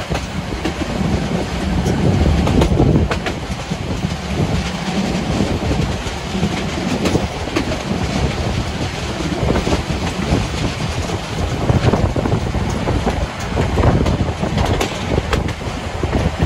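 Narrow-gauge Brocken railway train running along the track: a steady rumble with scattered clicks as the wheels pass over the rail joints.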